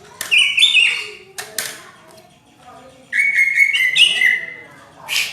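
Cucak ijo (green leafbird) singing in loud whistled phrases that step up and down in pitch, in two bursts, about half a second in and again from about three seconds, with sharp clicks between them.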